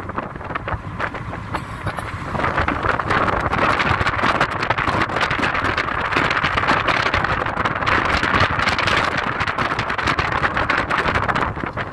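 Car driving along a forest road: steady tyre and road noise over the engine, growing louder about two seconds in.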